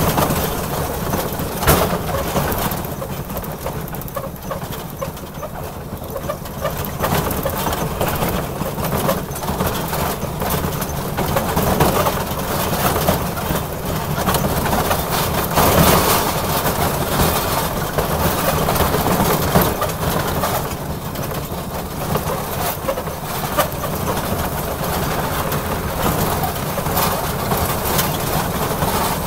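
Small railroad locomotive running steadily as the train rolls along the track, with scattered sharp clicks and knocks from the wheels and running gear.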